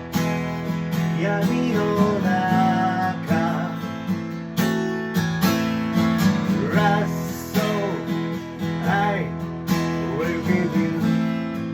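Acoustic guitar strumming steadily through an instrumental passage of a rock song, with a melody line on top whose notes bend up and down in pitch.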